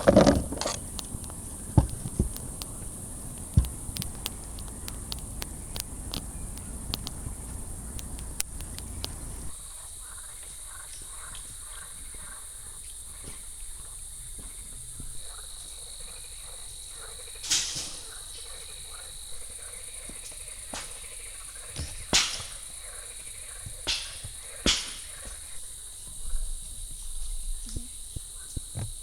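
Insects chirring in a steady high drone, with scattered sharp clicks and a few louder knocks. A thin steady high tone joins about a third of the way in.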